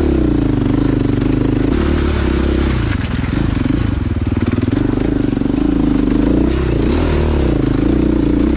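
Dirt bike engine running while ridden along a trail, its pitch rising and falling with the throttle.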